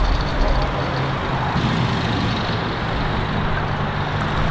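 Car engine idling with a steady low drone.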